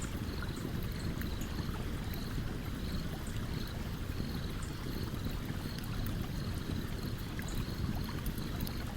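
Stream water running steadily, with a campfire crackling in scattered small pops over it. A faint high chirp repeats about twice a second throughout.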